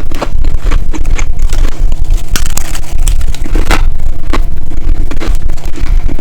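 Ice being bitten and chewed close to the microphone: a rapid run of crisp crunches, several a second, over a deep rumble from the chewing.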